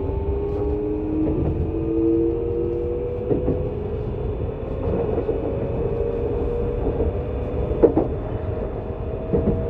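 Onboard running sound of a Keisei 3700 series late-batch unrenovated train. The Toyo GTO-VVVF inverter's whine rises slowly in pitch as the train gathers speed, over steady wheel-on-rail rumble, with a sharp clack about eight seconds in.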